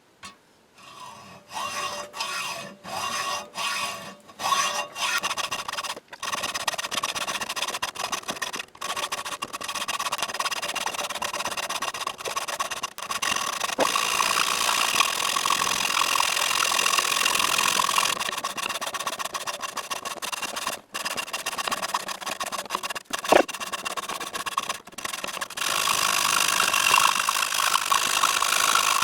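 Hacksaw cutting a steel handle rod to size: a few separate strokes at first, then quick, continuous back-and-forth strokes with a steady ringing tone under them.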